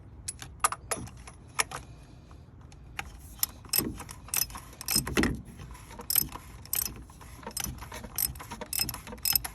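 A hand ratchet with a 24 mm socket clicking in short runs as it tightens the cartridge oil filter housing cap on a Chevy Ecotec 1.4 turbo, with a couple of dull knocks in between.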